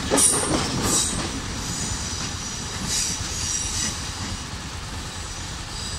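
A Sri Lankan diesel multiple unit train passing and pulling away round a curve: its wheels rumble on the rails and squeal briefly and high-pitched several times, the sound slowly fading as it leaves.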